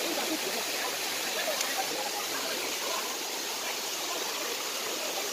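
Steady rush of a mountain waterfall and its stream, an even hiss of falling water.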